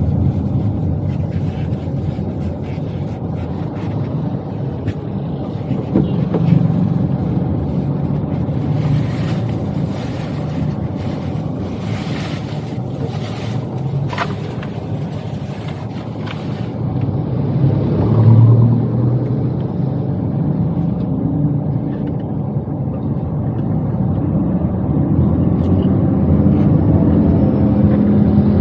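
Toyota Wigo's engine and road noise heard from inside the cabin while driving, a steady low rumble whose engine pitch shifts with speed. A louder low rumble swells about 18 seconds in, and the engine pitch rises near the end as the car picks up speed.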